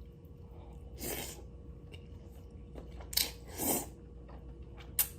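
Close-miked eating: a person chewing a mouthful of lomi noodles and kikiam, with four short, hissy bursts of mouth or breath noise.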